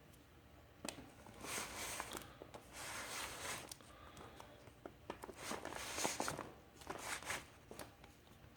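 Fireworks packaging being handled and rubbed: four bursts of rustling and scraping, with a few small clicks between them.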